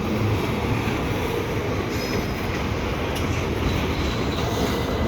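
Loaded double-stack container cars rolling by during a shove move, their wheels making a steady rumble on the rails, with a brief faint high wheel squeal about two seconds in.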